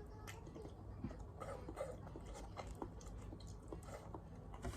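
Faint eating sounds: chewing, with scattered small clicks.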